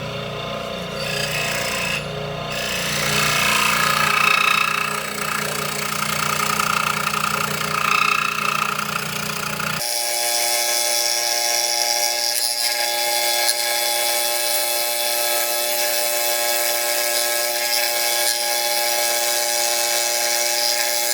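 Electric scroll saw running and cutting through the workpiece, a steady motor hum with the blade's rasp. About ten seconds in the sound changes abruptly, losing its low hum.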